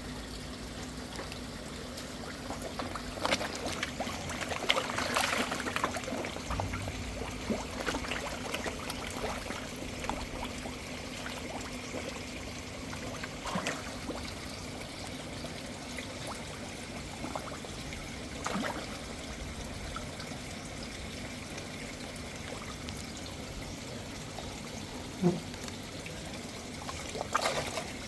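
Water trickling steadily into a koi pond, with scattered louder splashes from koi feeding at the surface, the busiest stretch a few seconds in.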